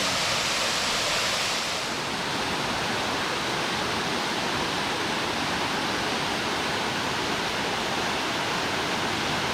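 Juney Whank Falls, a roughly 90-foot waterfall, rushing in a steady, loud wash of falling water. The highest hiss eases slightly about two seconds in.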